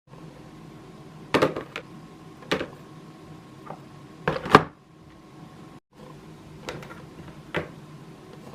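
Kitchen containers and jars being handled and set down: a series of sharp clacks and knocks, the loudest a quick double knock about four and a half seconds in, over a steady low hum.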